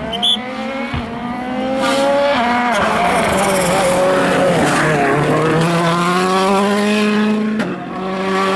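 Rally car engine at high revs going past at speed. Its pitch climbs, then dips briefly several times as it changes gear, and it is loud for several seconds. The note drops abruptly near the end as the driver comes off the throttle.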